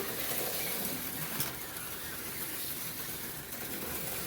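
HO-scale slot cars running laps on the track: a steady high hiss and buzz from the small electric motors, with their pickup shoes and tyres on the rails.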